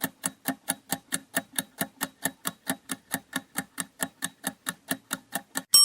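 Quiz countdown-timer sound effect: a clock ticking steadily, about four ticks a second, ending in a bell ding at the very end.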